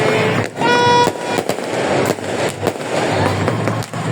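Aerial fireworks going off in quick succession: repeated sharp bangs over continuous crackling. A short steady pitched tone sounds briefly just under a second in.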